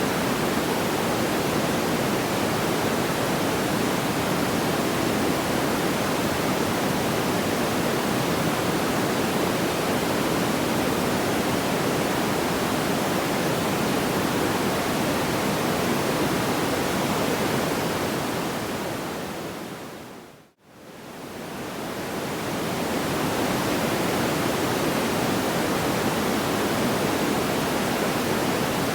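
Steady, even rushing noise like pink noise, with no distinct crackles or pops. About twenty seconds in it fades down to silence and fades straight back up, like the seam of a looped track.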